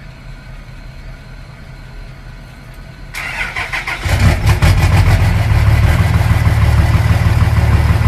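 2006 Cummins turbo diesel fitted with 60% over S&S fuel injectors cold-starting: a low hum, then about three seconds in the starter cranks and about a second later the engine fires. It then runs at a loud, steady idle with a rapid diesel clatter.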